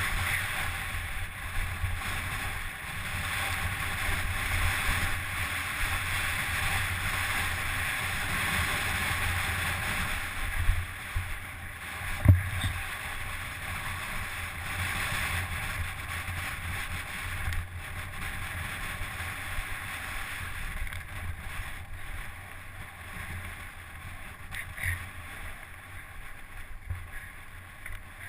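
Steady rush of wind buffeting the microphone over a low rumble, with one sharp knock about twelve seconds in.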